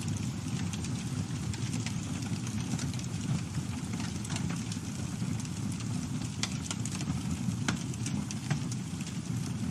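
Campfire burning: wood crackling with sharp pops at irregular intervals over a steady low rumble, with a few louder pops in the second half.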